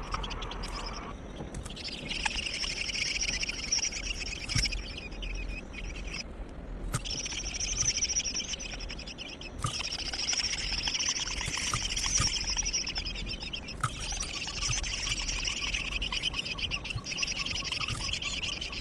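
Nestling birds begging: a high, rapid chatter in long bouts of several seconds, with short breaks every few seconds.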